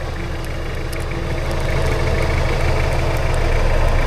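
Off-road 4x4's engine running steadily, growing louder from about a second and a half in as the vehicle takes on a steep section of track.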